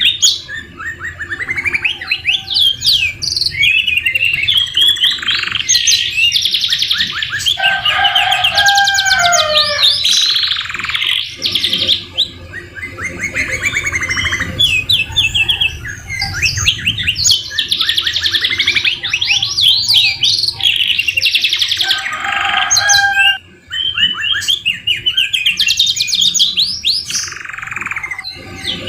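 Domestic canary singing a continuous song of rapid trills and rolls, with a few lower whistled phrases among them. The song is full of phrases copied from the white-rumped shama.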